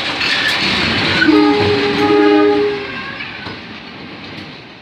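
Train passing close by, with a horn blast of several tones held for about a second and a half. The train's noise then fades away as it moves off.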